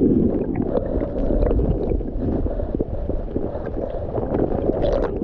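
Creek water sloshing and gurgling close to the microphone, with many small splashes and knocks in it, while a trout is held in the water for release.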